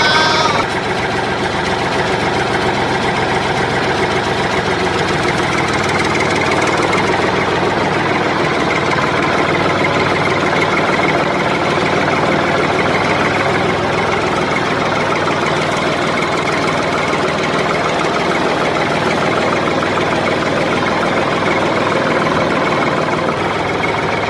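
Mini tractor engine idling steadily, with no change in speed.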